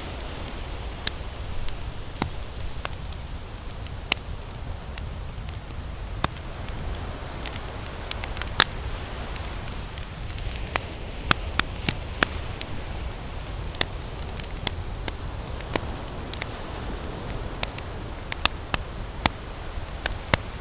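Wood campfire crackling, with irregular sharp pops and snaps several times a second over a steady low rush.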